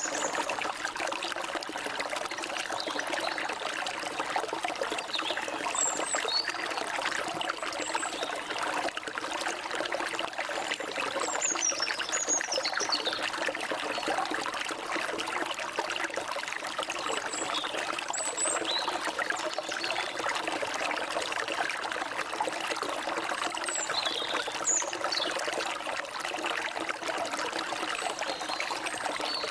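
Forest stream water flowing and trickling steadily, with short, faint high bird chirps now and then over it.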